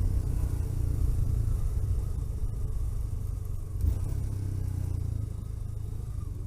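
A car driving on the road: a steady low engine and road rumble that slowly gets quieter, with a brief bump about four seconds in.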